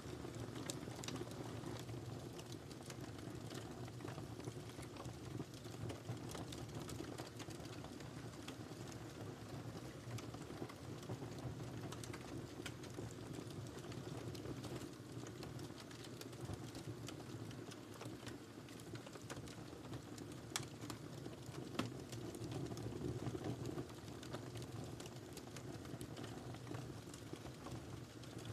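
Wood fire crackling in a fireplace: a steady low rumble of burning with frequent small pops and snaps, and a couple of louder pops about three-quarters of the way through.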